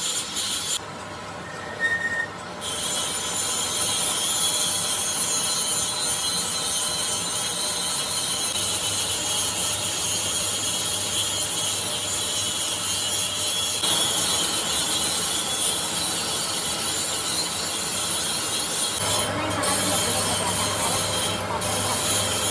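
Steady scraping noise of a compressor crankshaft being machined, with a low motor hum underneath. The noise drops briefly about a second in, then carries on.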